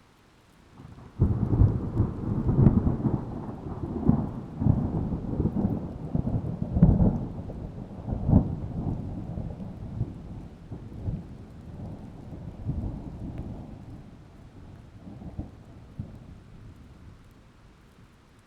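A peal of thunder: it breaks suddenly about a second in, rolls on with several loud cracks for about seven seconds, then rumbles away slowly over the next ten.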